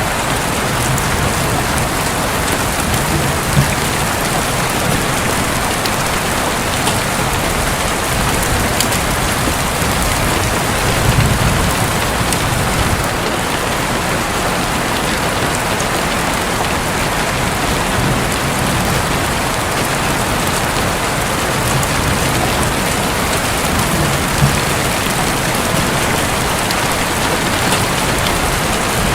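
Steady heavy rain pattering on a roof, with low rumbles of distant thunder swelling now and then, the strongest a little over ten seconds in.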